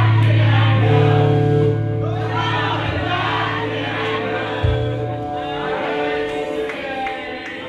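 Band music with several voices singing together over held bass notes.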